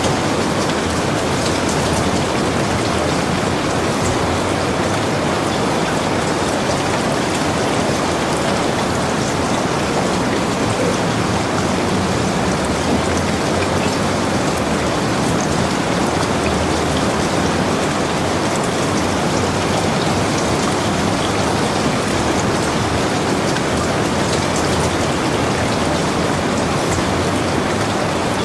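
Heavy rain falling steadily, a dense even hiss of drops with faint individual drop ticks.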